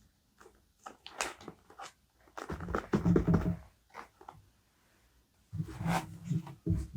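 Paper and journaling materials handled on a desk: a few light taps and ticks, then two louder spells of paper rustling and rubbing, one in the middle and one near the end.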